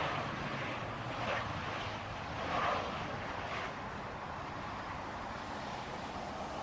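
Steady, even rush of a jet airliner's engines heard from a distance, mixed with wind on the microphone.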